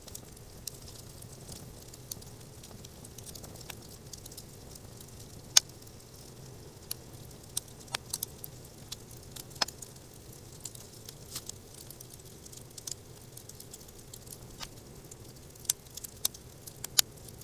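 Wood campfire crackling: scattered sharp pops over a low steady background, with one louder pop about five and a half seconds in.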